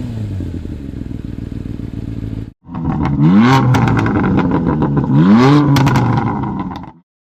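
2003 Yamaha YZF-R6's 600cc four-cylinder engine through an Akrapovic exhaust with no dB killer, idling steadily. After a cut it is blipped twice, the revs rising and falling quickly, with crackles and pops from the exhaust as the revs drop.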